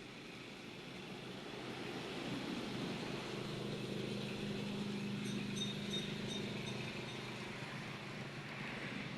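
A motor vehicle passing by, its engine hum swelling to a peak and then fading. A few faint high squeaks sound about halfway through.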